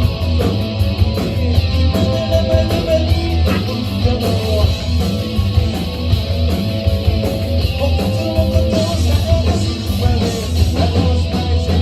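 Rock band playing an instrumental passage: electric guitar carrying a melodic line over bass and a steady drum beat.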